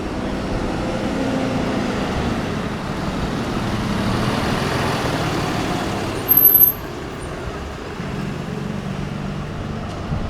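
Road traffic passing, with one vehicle swelling up and fading around four seconds in. A little after six seconds a brief, loud, very high-pitched squeak cuts through.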